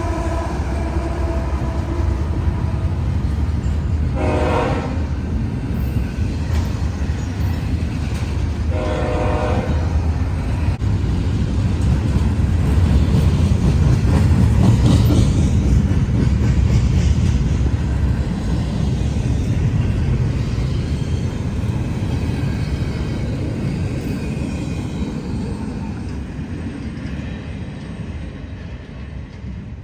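CSX freight train passing. A held locomotive horn chord cuts off just after the start, and two short horn blasts follow about four and nine seconds in. Then the steady low rumble of the passing cars swells, is loudest about halfway through, and fades toward the end.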